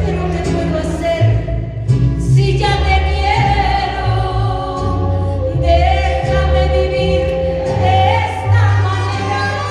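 Live ballad performance: a woman singing long held notes over a band with a stepping bass line.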